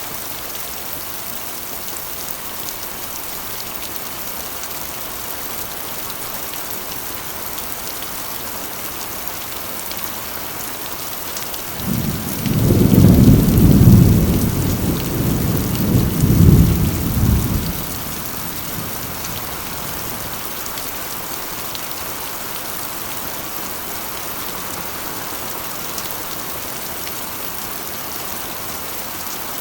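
Heavy rain drumming steadily on a corrugated iron roof. About twelve seconds in, a roll of thunder rumbles low and loud for about six seconds, swelling twice before fading back under the rain.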